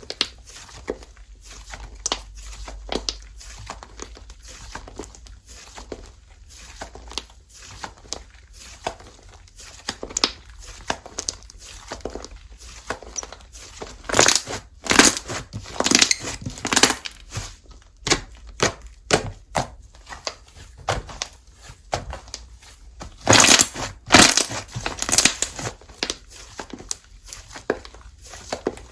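Hands squeezing, stretching and pressing slime, giving a run of wet crackles, pops and clicks, loudest in two stretches about halfway through and again near the end.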